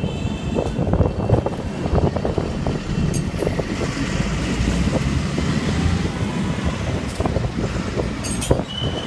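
Motorbike-with-sidecar taxi riding along a bumpy street: a steady rumble of the running vehicle and road, broken by frequent rattles and knocks from the bouncing ride.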